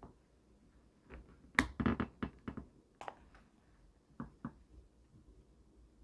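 Hands handling small objects: a quick cluster of clicks and taps about a second and a half in, a single tap near three seconds, and two more a little after four seconds.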